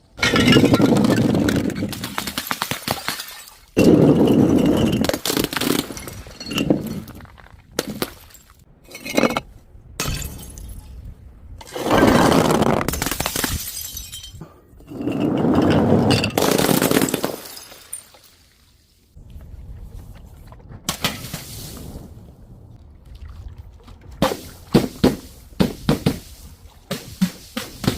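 Glass bottles and jars shattering one after another: a series of sudden crashes, each with a spray of falling shards. Four big crashes stand out, with smaller breaks between them and a quick run of sharp clinks near the end.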